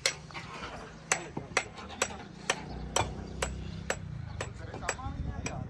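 Steady hammering at a construction site, about two sharp blows a second, over a low steady hum.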